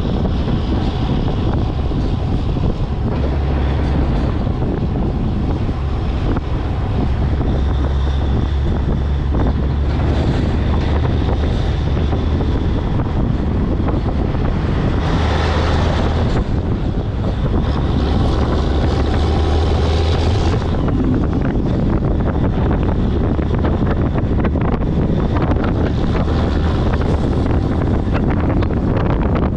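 Heavy truck driving on the highway: a steady low diesel engine drone under road noise, with wind buffeting the microphone. Louder gusts of wind and road noise come about halfway through.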